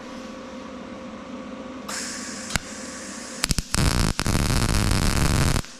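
Wire-feed welder arc laying a tack weld on thin steel plate at its 14-gauge setting: a few short sputtering strikes about three and a half seconds in, then a steady crackling run of about two seconds that stops suddenly.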